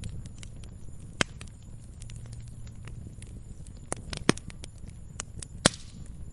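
Wood fire crackling, with irregular sharp pops; the loudest come about a second in, just past four seconds and near the end, over a low steady rumble.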